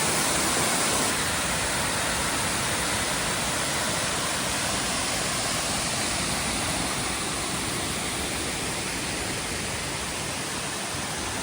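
Ellinjaa Falls pouring: a steady, even rush of falling water.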